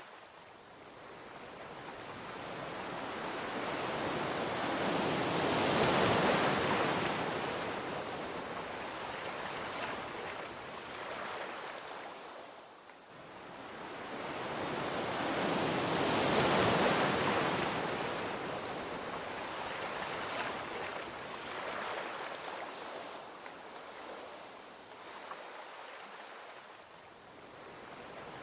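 Gentle ocean waves breaking and washing up a beach, two slow swells about ten seconds apart, each rising to a peak and fading into a softer wash.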